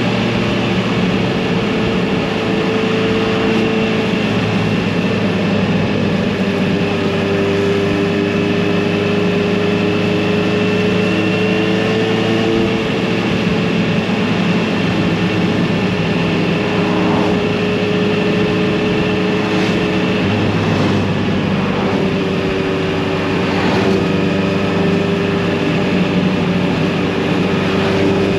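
Kawasaki Z900RS inline-four motorcycle engine and exhaust running at a steady cruise, its pitch drifting only slightly up and down.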